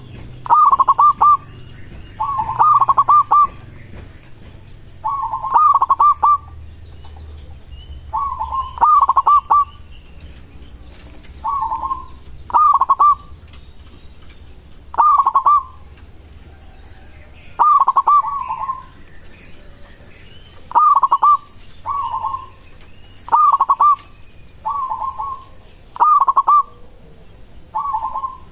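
Zebra dove (perkutut) cooing: short bursts of rapid, rolling coo notes, repeated about every two to three seconds.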